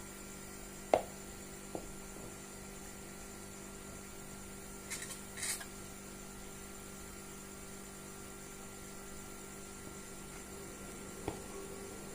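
Steady electrical mains hum, with a sharp click about a second in and a lighter one just after, a brief hiss twice around the middle, and another click near the end.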